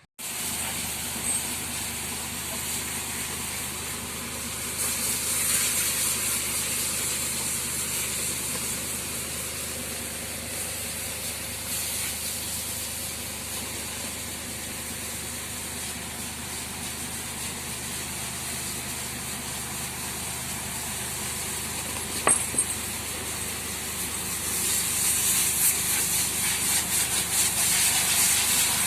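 Water spraying with a steady hiss from a motor-driven pressure washer while a cow is washed, the motor running steadily beneath. A brief knock sounds about two-thirds of the way through, and the spray gets louder near the end.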